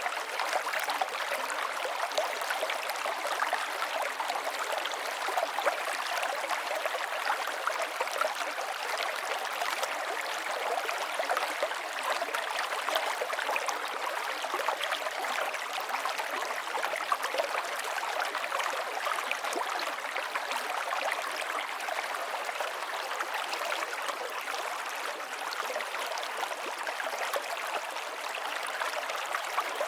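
River water flowing and splashing steadily over stones, a continuous rushing with many small splashes and gurgles.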